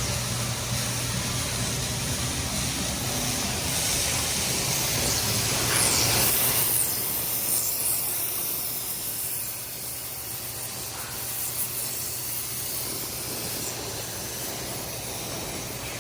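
Pipe beveler cutting a 16-inch pipe, giving a steady hiss, with a low hum underneath that stops about seven seconds in.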